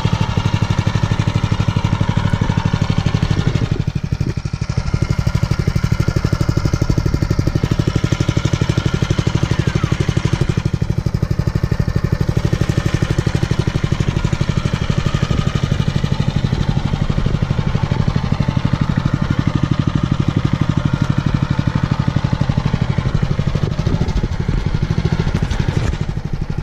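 Mega Moto minibike's 212cc single-cylinder four-stroke engine idling steadily, warming up just after its first start so the oil gets moving before break-in.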